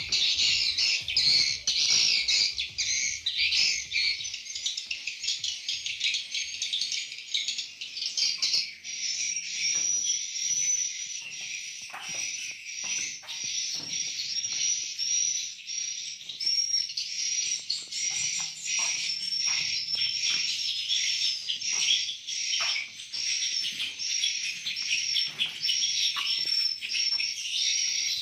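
Swiftlets chirping in a dense, continuous twittering. About a third of the way in it settles into a short high chirp that repeats at a steady pace.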